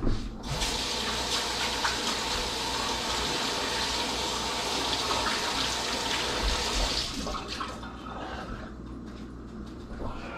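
Kitchen sink tap running while hands are washed under it, a steady rush of water that is turned off about seven seconds in.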